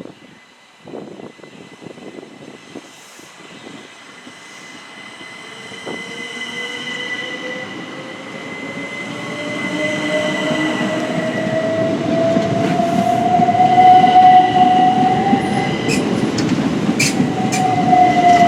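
Class 375 Electrostar electric train running past, its traction-motor whine rising in pitch as it gathers speed and grows louder, with rumble from the wheels and a few sharp clicks from the wheels over rail joints near the end.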